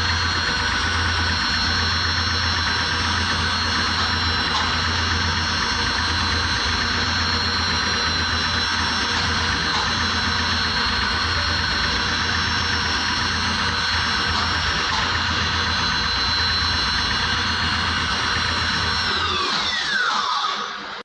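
CNC engraving machine's spindle running with a steady high whine and a low pulsing hum. Near the end the whine falls in pitch as the spindle spins down, and the sound stops.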